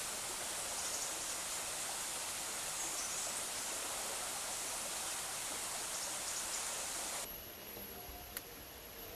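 A steady, even rushing hiss that starts abruptly and cuts off about seven seconds in, followed by a single sharp click near the end.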